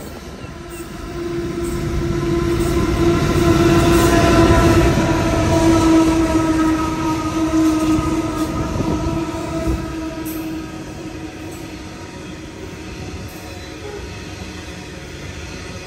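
Genesee & Wyoming Australia diesel locomotives pass close by with a steady droning tone, loudest a few seconds in. About ten seconds in the tone fades, and the passing coal hopper wagons' wheels keep running on the rails.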